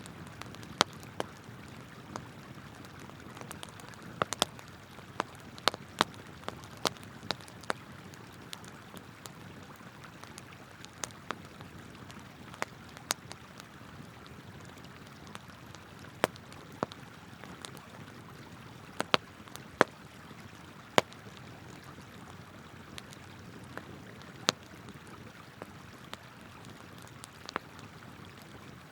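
Wood campfire crackling, with irregular sharp pops scattered over the steady rush of a flowing river.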